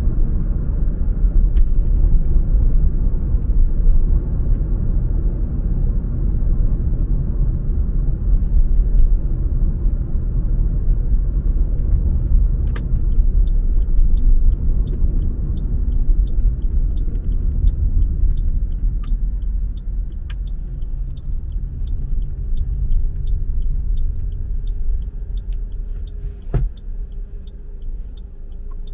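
A car driving on the road: a steady low rumble of tyres and engine that eases near the end. From about halfway through, a light regular ticking comes in, about two ticks a second.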